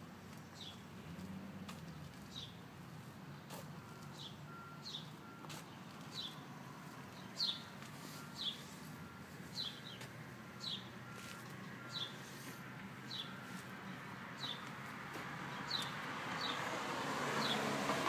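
A bird repeating a short, falling chirp about once a second. A rushing noise grows louder near the end.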